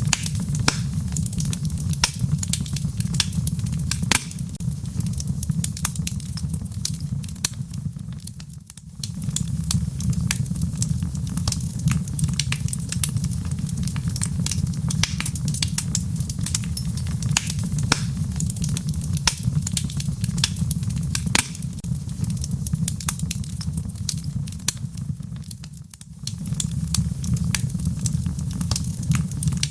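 Wood fire crackling in a fireplace: a steady low rumble of flames with constant sharp crackles and pops. The sound fades down briefly and comes back twice, about 9 seconds in and again near 26 seconds.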